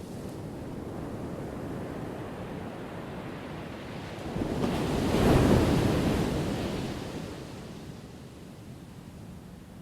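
Ocean waves crashing on a shore: a steady wash of surf with one wave building about four seconds in, breaking loudest near the middle and ebbing away over the next few seconds.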